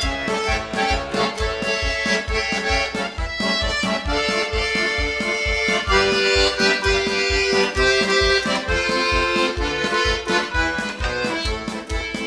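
Bayan (Russian button accordion) playing a march-like instrumental introduction: held melody notes over a steady bass-and-chord accompaniment.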